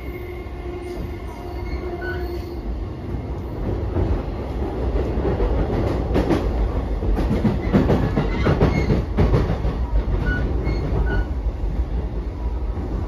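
Running noise inside a JR East E233-5000 series commuter car: a steady rumble and clatter of wheels on rail that grows louder a few seconds in. A few short high wheel squeals come near the end.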